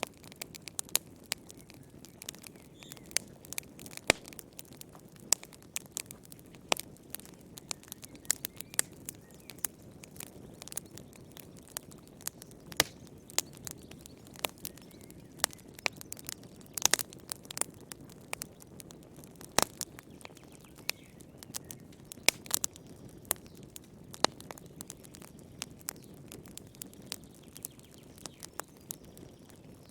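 Wood fire burning in a fireplace: irregular sharp crackles and pops, a few of them louder, over the low steady rush of the flames.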